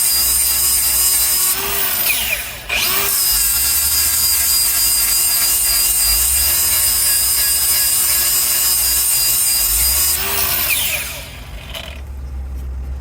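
Electric hand grinder running with a steady high-pitched whine while sharpening the cutting teeth on a Bandit Beast 4680 grinder's mill. Twice its pitch sags briefly under load with a rougher grinding noise, and near the end it winds down and stops.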